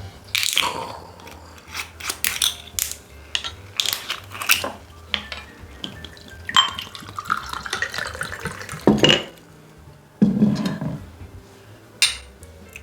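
Close-miked eating: bites and chewing of crispy fried chicken and spicy bone-in chicken feet, heard as an irregular string of sharp crunches and clicks with occasional clinks of dishes or utensils.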